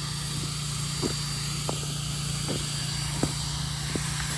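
An engine running steadily in a low drone, with a handful of light knocks and taps scattered over it.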